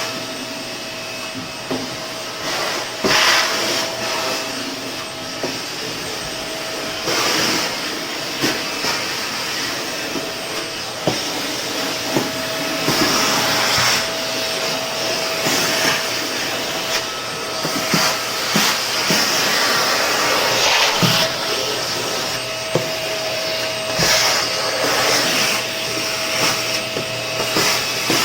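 Vacuum cleaner running steadily with a thin whine. Its sound swells and dips every few seconds as the nozzle is worked back and forth, with scattered clicks and knocks of the nozzle against surfaces.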